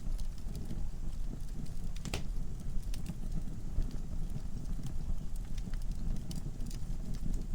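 Wood fire in a fireplace burning with a steady low rumble and scattered crackles and pops from the logs, one sharper pop about two seconds in.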